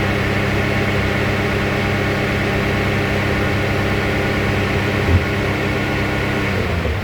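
Car engine held at high revs with the gas pedal floored, a steady unchanging note, then dropping away as the pedal is let off near the end.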